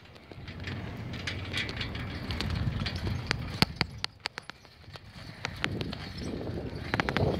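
Bicycle being ridden, heard from a camera on or near the bike: a low rumble from tyres and wind that dips about two-thirds of the way through, with scattered sharp clicks and rattles.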